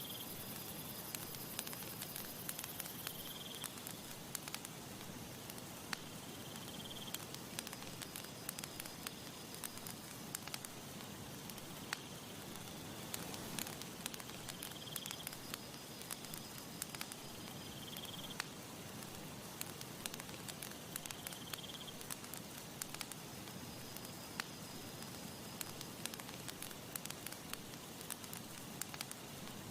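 Campfire crackling, with many small sharp pops scattered irregularly over a steady soft hiss of breeze.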